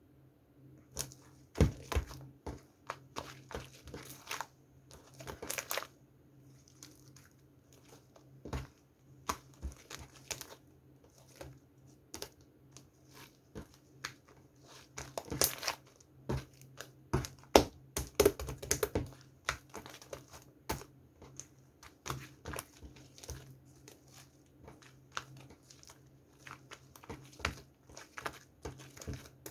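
Slime being squeezed, pressed and stretched by hand, giving irregular sharp clicks and crackling pops, over a faint steady hum.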